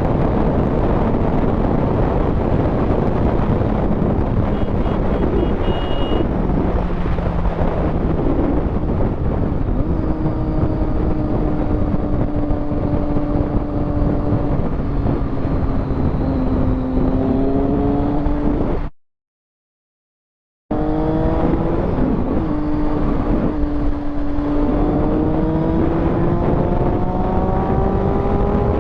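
Motorcycle engine running under way, its pitch climbing repeatedly as it accelerates through the gears, over heavy wind and road roar. The sound cuts out completely for about two seconds near the middle.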